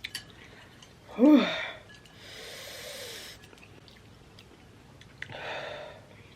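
A person breathing out hard through the mouth in long, breathy huffs, with a short vocal 'ooh' about a second in, reacting to the burn of very spicy noodles.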